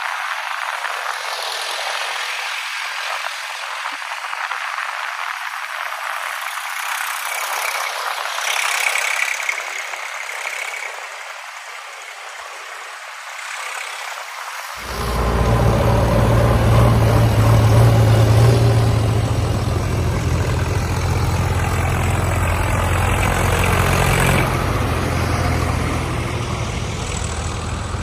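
Tractor engine running steadily from about halfway, after an abrupt change from a thin hiss with no low end.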